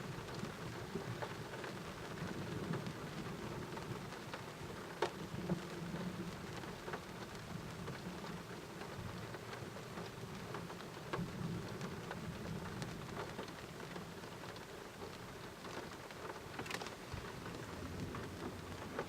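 Steady rain falling during a thunderstorm, with low thunder rumbling that swells and fades, and scattered sharp ticks of drops hitting a hard surface.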